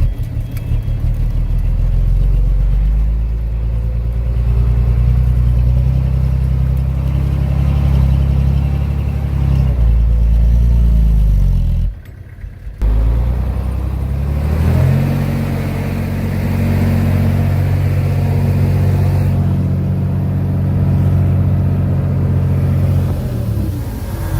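Heavy diesel engine of earthmoving machinery revving up and running hard under load, then dropping back. A sudden break cuts it off for under a second about halfway through. It then revs up again and runs steadily before easing off near the end.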